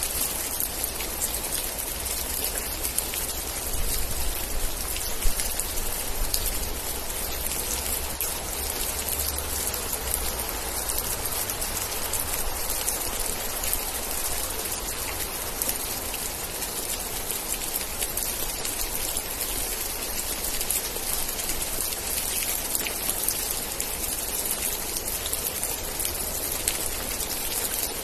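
Steady rain falling, a dense patter of individual drops over a constant hiss, with a low rumble underneath. One louder single hit stands out about five seconds in.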